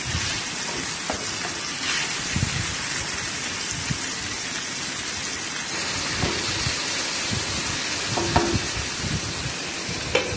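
Sliced potatoes and tomato frying in hot oil in a non-stick pan, a steady sizzle, while a wooden spatula stirs them with a few light scrapes and knocks.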